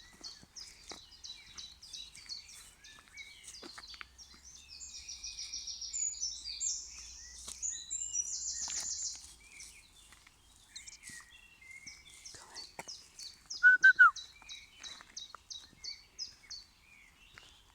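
Wild birds singing: many quick, high chirps and trills, with a brief louder call about two-thirds of the way through.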